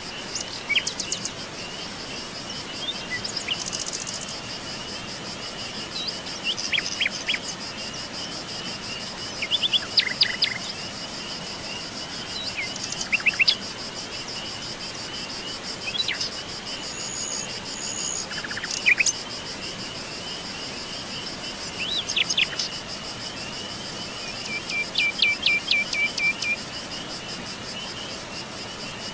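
Wild songbirds chirping and trilling in short, separate phrases every second or two, over a steady, high, continuous insect trill such as crickets.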